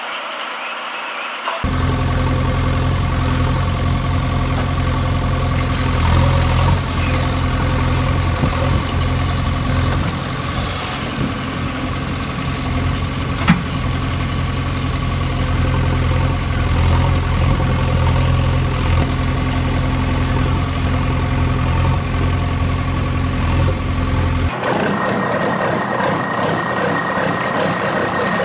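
Engine idling steadily with a low, even hum, the sound changing abruptly about two seconds in and again a few seconds before the end.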